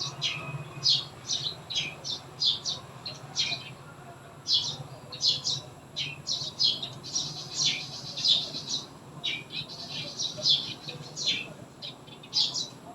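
Small birds chirping: many short, high chirps following one another several times a second, over a low steady hum.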